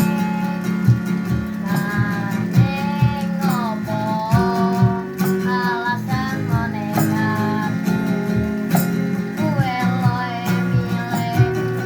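A child singing a melody, with a strummed stringed instrument keeping a steady rhythm underneath.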